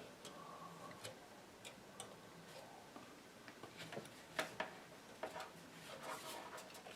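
Faint, irregular small clicks and taps of tools and parts being handled on a radio chassis during wiring work. The sharpest taps come a little past the middle.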